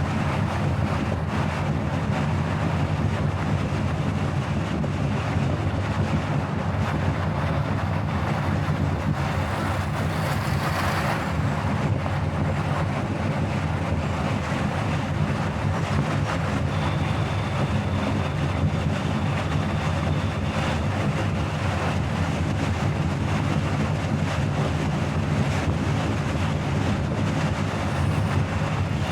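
Steady road and wind noise from a car driving along, with a low drone underneath. There is a brief swell of hiss about ten seconds in.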